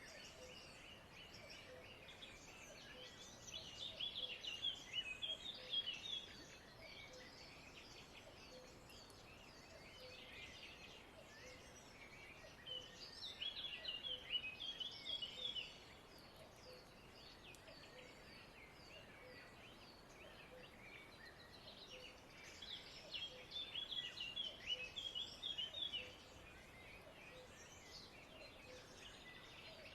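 Small songbird singing in three bursts of rapid chirping, each lasting about three seconds and about nine seconds apart, over a faint steady background.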